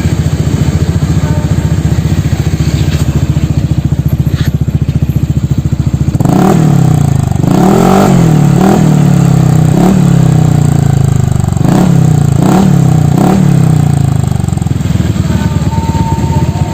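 Honda ADV 150 scooter's single-cylinder engine through a Pro Speed aftermarket exhaust, idling, then revved in a string of quick throttle blips for about seven seconds before settling back to idle.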